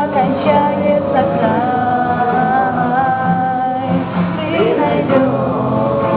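Group singing, male and female voices together, with a held note in the middle.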